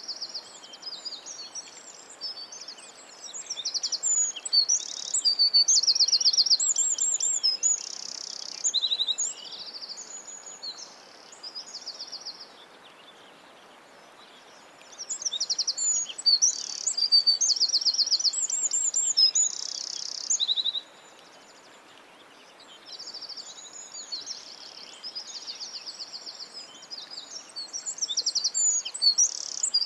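Several small songbirds chirping and singing, with fast high-pitched trills, in busy bursts broken by two short lulls, over a faint steady outdoor hiss.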